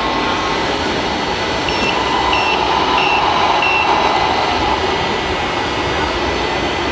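Reversing beeper sounding four short beeps at an even pace, over a steady dense rush of background noise.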